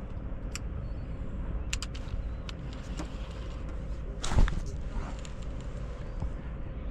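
Steady low rumble and faint hum of a boat on the water, with a few light clicks and one louder knock about four seconds in.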